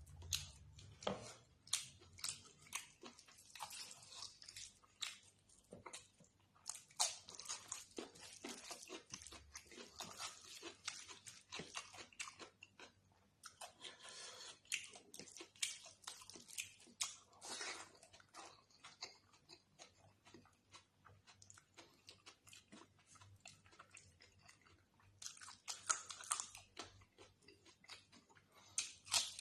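Close-miked ASMR eating: a person chewing and biting food with crackly, crunchy mouth sounds, in uneven runs of small clicks that thin out past the middle and pick up again near the end.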